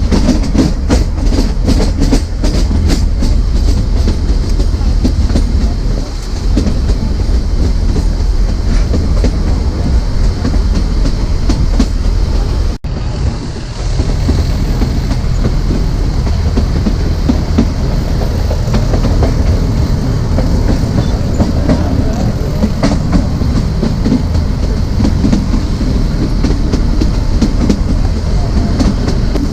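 Narrow gauge passenger train running, heard on board: a steady low rumble of the coach with wheels clicking over rail joints, the clicks quickest and plainest in the first few seconds. The sound cuts out abruptly for an instant near the middle and comes back quieter for about a second.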